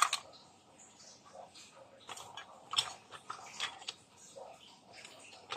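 Irregular small clicks and taps of objects being handled, with a sharp click at the start and a few louder ones about three seconds in.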